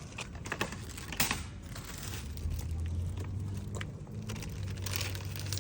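Rustling and small clicks of things being handled, over a low steady hum that comes in about two seconds in.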